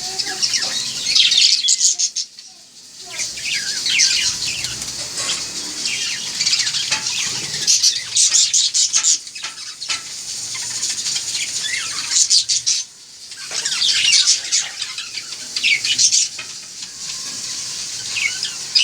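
Pet parrots chirping and calling in quick, shrill bursts, with brief lulls between the bursts.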